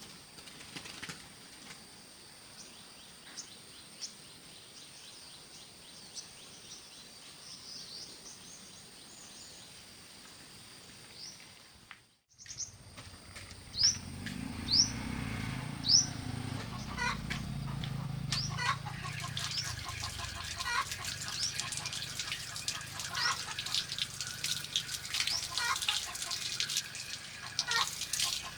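Birds chirping in short, falling chirps, with a steady high whine beneath them at first. About twelve seconds in the sound cuts out briefly. It then resumes with more frequent chirps over a low rumble and scattered clicks.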